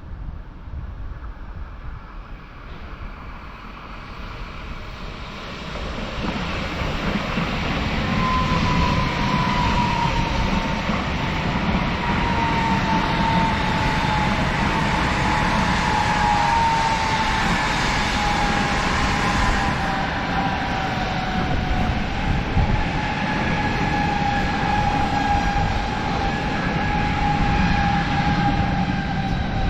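A train running along the tracks, growing louder over the first several seconds and then holding steady. From about eight seconds in, a whine slowly falls in pitch over the rumble.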